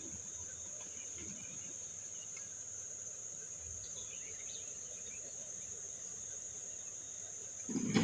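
A steady high-pitched drone with a faint low rumble beneath it, and a short low thump near the end.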